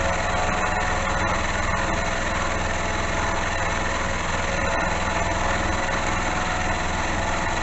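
Small benchtop milling machine (Amadeal XJ12) running steadily with its motor hum, the cutter taking a light cut in the workpiece under power feed.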